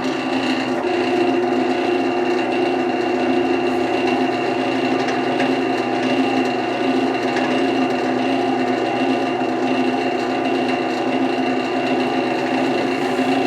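Wood lathe running at a steady speed, with a 1.5-inch Forstner bit boring into the spinning wood.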